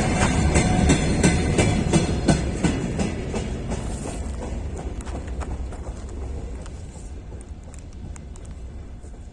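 Freight train wagons rolling past, wheels knocking over rail joints with a low rumble; the clatter grows fainter and sparser as the train moves away.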